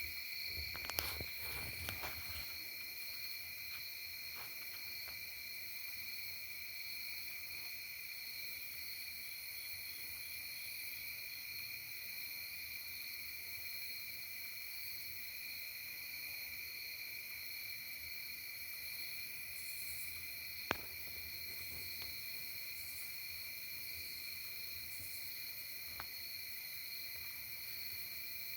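Crickets trilling in a steady, continuous chorus on an unchanging high pitch. A few soft thumps and clicks come near the start, and one sharp click about two-thirds of the way through.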